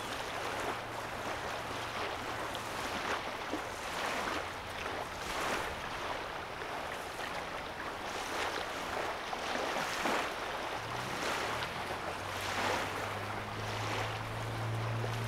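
Small lake waves lapping on a sandy shore, one gentle wash every second or so. A low engine hum sits underneath, fading early on and growing louder over the last few seconds.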